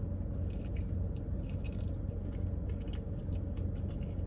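A person chewing a mouthful of bone-in honey sriracha chicken wing, with scattered small wet mouth clicks and smacks, over a steady low hum.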